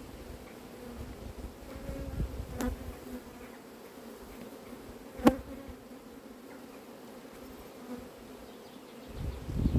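Honeybees buzzing steadily around an open hive, a low even hum. Two sharp knocks break in, about two and a half and five seconds in, the second the louder, with some low handling rumble near the end.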